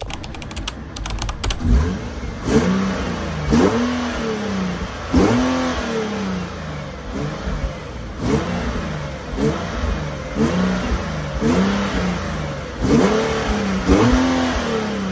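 Infiniti G37's engine, still on its stock exhaust, revving up and falling back again and again, about once a second. A quick run of clicks comes in the first second or so.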